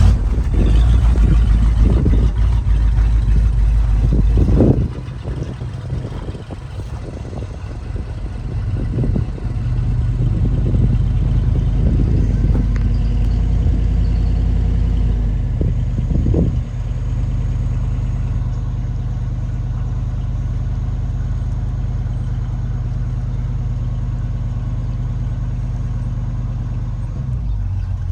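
1967 Ford F100's 352 V8 starting up suddenly and being revved in a series of blips over the first few seconds. It is revved a few more times, then settles into a steady idle for the last ten seconds or so.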